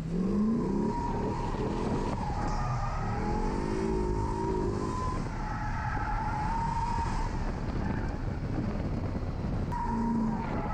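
A drift car's engine revving up and down over a sustained tire squeal as the car slides.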